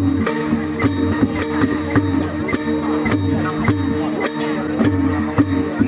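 Traditional Shan dance percussion: steady drum and cymbal strikes about two a second over sustained ringing gong tones.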